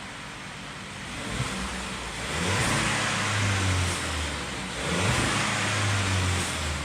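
Volkswagen Polo engine idling, then revved twice: each time the note rises, holds for a second or two and falls back to idle.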